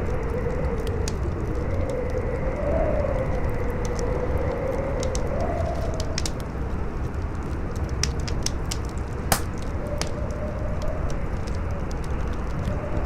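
Campfire crackling with many small sharp pops and one louder pop about nine seconds in, over steady howling wind whose pitch wavers up and down.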